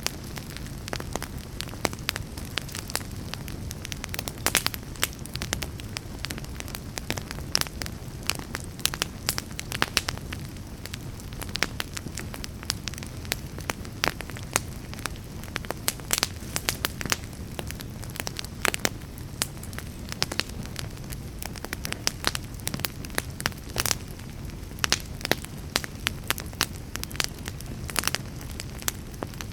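Fire burning in a fireplace, crackling steadily with frequent irregular sharp pops and snaps over a low, steady rumble of the flames.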